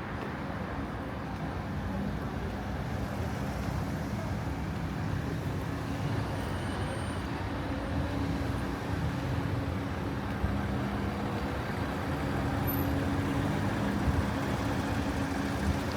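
Street traffic: motor vehicle engines running with a steady low rumble and hum, growing gradually louder.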